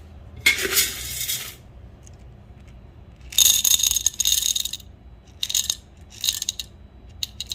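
Coffee beans poured and rattling into a small container in several bursts while being weighed out, the longest and loudest a little past the middle.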